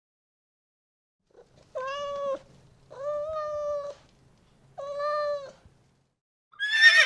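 Domestic cat meowing three times, the middle meow the longest. Near the end a louder, higher horse whinny begins.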